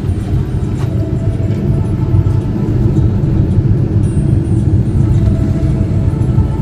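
Boeing 777-300ER airliner heard from inside the cabin: a loud, steady low rumble of engine and airframe noise.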